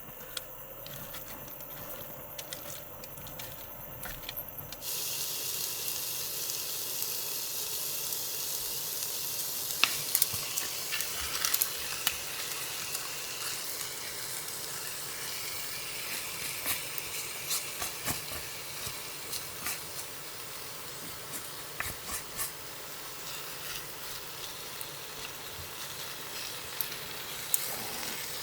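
Food sizzling and frying in a pan, a steady hiss with scattered crackles and pops, starting suddenly about five seconds in.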